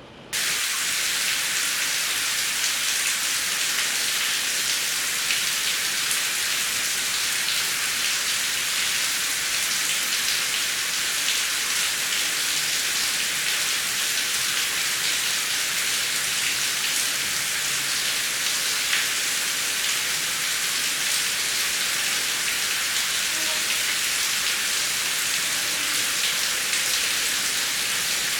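Heavy rain: a dense, steady hiss of drops with fine patter, cutting in suddenly just after the start and then holding even.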